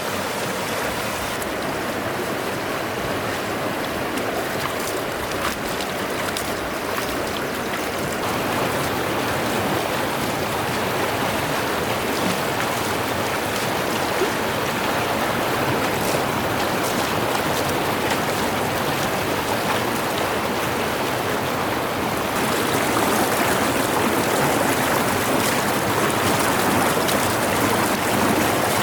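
Stream water running in a steady rush, growing louder and brighter about three-quarters of the way in.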